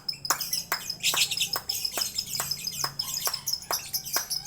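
A caged songbird chirping rapidly in a busy, continuous string of high notes, over a steady, even clicking about three times a second.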